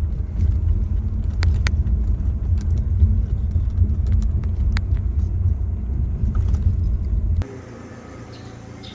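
A car driving: a steady low road rumble with occasional small clicks. About seven seconds in it cuts abruptly to a much quieter steady hum with faint high chirps.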